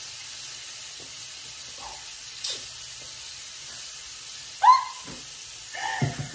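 Floured chicken wings frying in a pan of hot oil: a steady sizzling hiss. A woman gives a short loud laugh a little past the middle, with more vocal sounds near the end.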